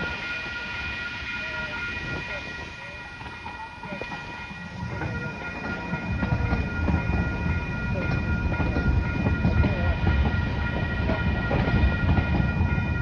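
MTS light-rail trolley train pulling into a station, its wheel and running rumble growing louder about halfway through. Several steady high tones sound throughout.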